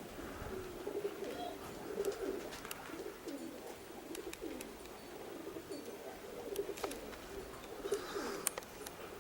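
A group of racing pigeons cooing, their low coos overlapping one after another, with scattered sharp clicks among them.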